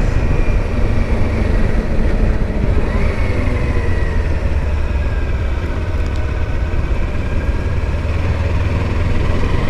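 Kawasaki Versys-X 300 parallel-twin motorcycle engine running while riding, under steady wind and road noise. About three seconds in, the engine note rises briefly, then slowly settles.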